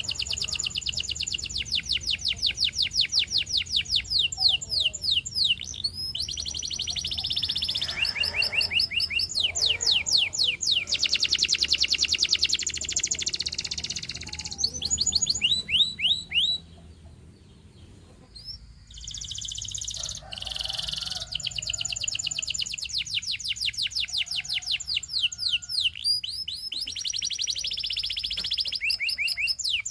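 Domestic canary singing: long, rapid trills of repeated sweeping notes, changing from one trill to the next, with a brief pause a little past the middle.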